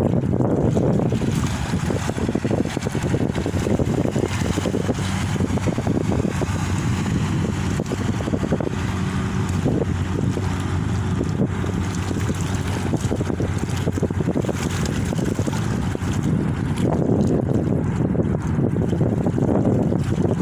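Water moving and splashing steadily, with wind buffeting the microphone.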